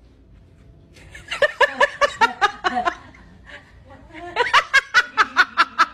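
A person laughing in two runs of quick, evenly spaced ha-ha bursts: the first from about one second in to nearly three seconds, the second starting about four seconds in and carrying on past the end.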